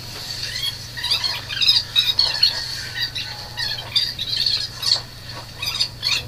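Birds chirping in many quick, irregular calls over a faint steady high tone, heard through the speaker of a video playing in the background.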